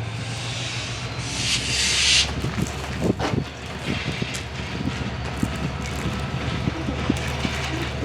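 Diesel train locomotive running with a steady low engine drone. A burst of air hiss comes about a second in and lasts about a second, with scattered knocks and clanks.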